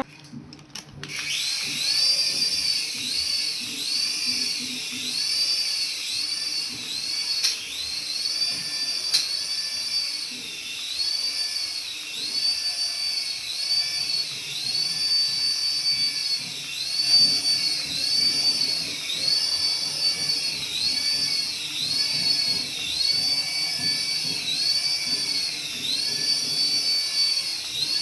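Small electric motor of a battery-powered toy running with a high-pitched whine that rises and falls in pitch about once a second.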